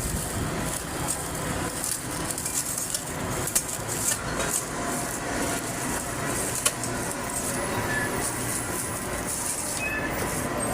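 Steady vehicle rumble and hiss, with a few sharp clicks and knocks scattered through it.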